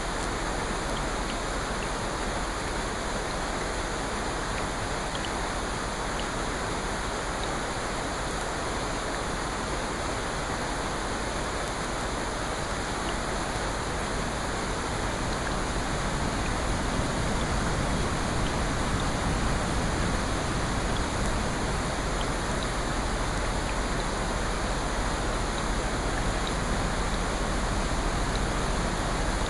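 Steady rain, an even hiss with faint tiny ticks of drops, getting a little louder about halfway through.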